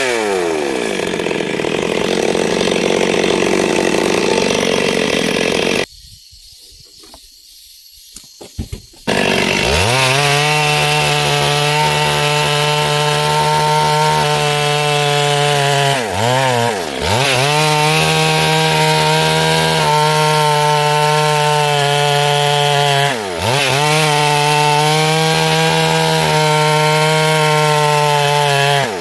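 Two-stroke chainsaw running at high revs while cutting through wood, its pitch dipping briefly a few times as it bogs or eases off. About six seconds in, the saw drops away for some three seconds, then winds back up to full speed.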